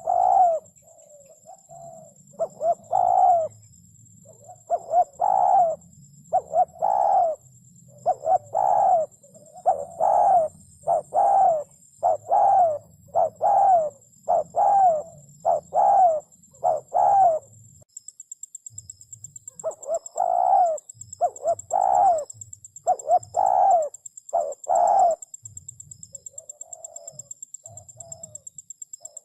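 Spotted dove cooing over and over in runs of short, bubbling coo notes, with a brief pause about two-thirds of the way through before the calling resumes. A faint, steady high-pitched whine runs underneath.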